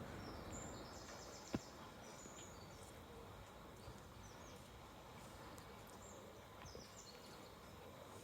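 Faint background hum with small birds chirping now and then; one sharp click about one and a half seconds in.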